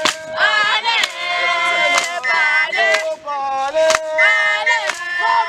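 A group of voices singing a traditional dance song together, women's voices prominent, with a sharp beat about once a second.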